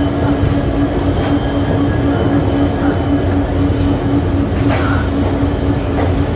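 Diesel-hauled express passenger train running, heard on board: steady rolling rumble with a constant droning tone, and a brief hiss about five seconds in.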